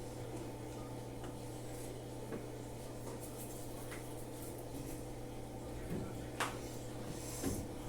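Light knocks and clicks of household things being handled, over a steady low hum. The knocks are a few seconds apart, and the sharpest come about six and a half seconds in and near the end.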